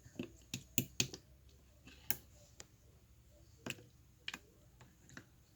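Slime being pressed and played with by hand, giving irregular sharp clicks and pops, several in quick succession in the first second and then sparser.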